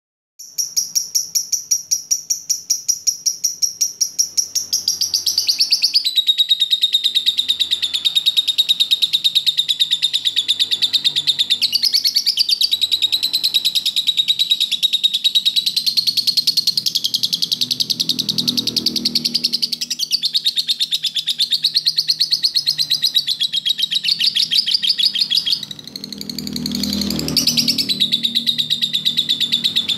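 Lovebird singing: a fast stream of high, shrill chirps, starting as evenly spaced chirps about four a second and then running together into a continuous chattering trill.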